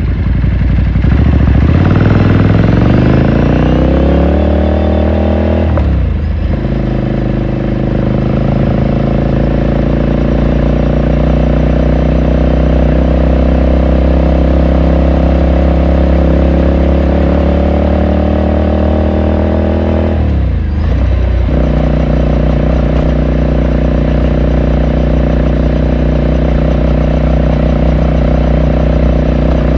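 Ducati Scrambler Sixty2's air-cooled L-twin running under way. It accelerates with rising pitch for the first few seconds and shifts up about six seconds in. It then pulls with a slowly rising pitch, shifts up again about twenty seconds in, and settles to a steady cruise.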